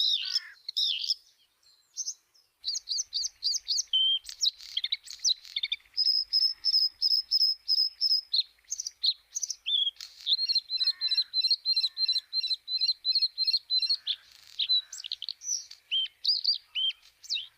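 Bluethroat singing: a long, varied song of high chirps and whistles, with fast runs of repeated ringing notes. There is a short pause about a second in.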